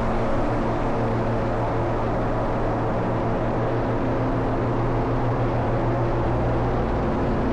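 Moving passenger train running steadily: a constant rumble with a low, even hum.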